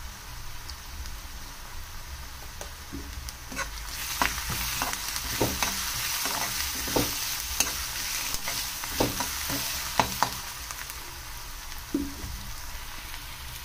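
Chopped onions and green chillies frying in oil in a kadhai with ground spices and salt, sizzling steadily while a spatula stirs and scrapes, knocking against the pan now and then. The sizzle grows louder about four seconds in as the mixture is turned over.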